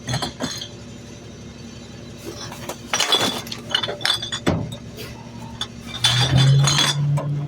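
Trash being tipped into a garbage truck's hopper: a string of clattering knocks with glass clinking. About six seconds in, a louder steady low hum joins.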